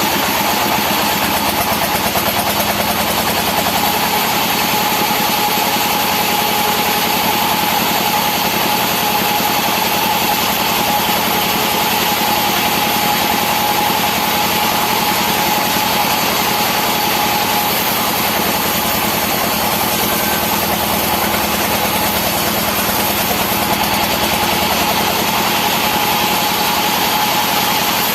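Engine-driven wood saw running steadily, an even drone with no rise or fall in pitch.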